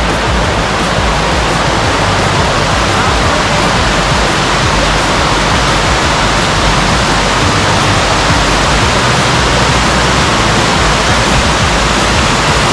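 Loud, steady rush of a waterfall's falling water, an even roar of white noise that holds unchanged throughout.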